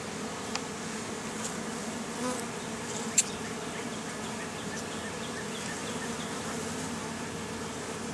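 Honeybees buzzing in a steady, dense hum around an opened hive. A few light clicks sound over it, the sharpest about three seconds in.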